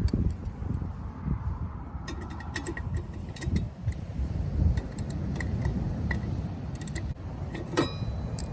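Yamaha DragStar 400 V-twin idling low with the uneven 'three-beat' lope from its exhaust, the pulses coming irregularly. Light metallic clicking and ticking sounds over it from about two seconds in.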